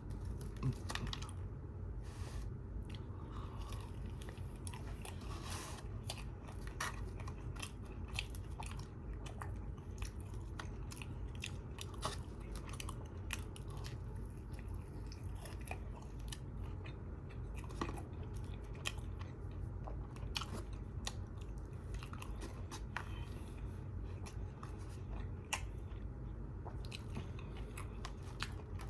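A person chewing and biting food close to the microphone, with many small crisp clicks and crunches throughout.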